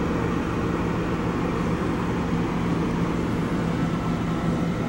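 Steady running noise of an Amtrak passenger train as heard inside a car, with a steady low hum under it, as the train gets under way again.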